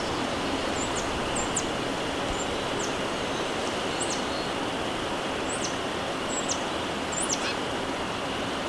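A bird calling over and over with short, high chirps, roughly one a second and unevenly spaced, over a steady background hiss.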